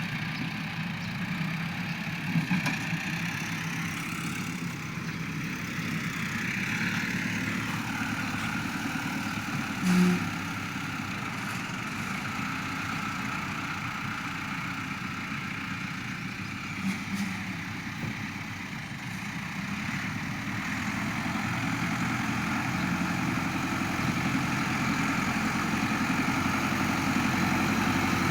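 Tractor engine running steadily at idle, with a short loud low tone about ten seconds in, and the engine growing slowly louder near the end.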